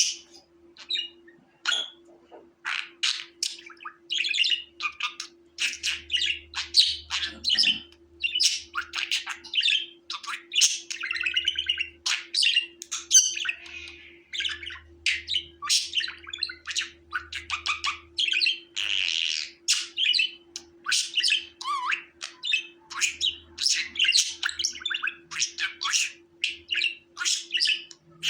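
Budgerigar chattering: a rapid, continuous stream of high chirps, squawks and warbles.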